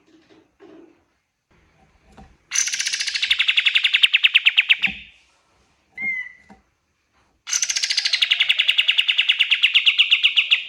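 Kapas tembak songbird singing two long, rapid trills of evenly repeated notes. Each trill starts high and settles slightly lower, and they are separated by a short single call.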